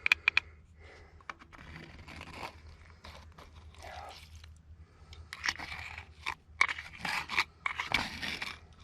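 Metal tool, likely a screwdriver, scraping and picking at crusted rust and dirt inside an old engine, giving gritty crunching scrapes. A few sharp clicks come at the start, and the scraping grows busier in the second half.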